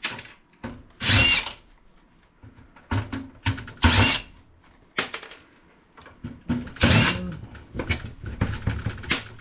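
A power drill-driver running in several short bursts as it backs out screws from a PC case. Clicks and knocks of the case being handled come in between the bursts.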